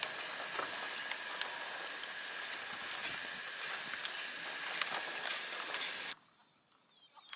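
Rain falling steadily, with many small drop ticks in a continuous hiss, under a faint steady high tone; it cuts off suddenly about six seconds in.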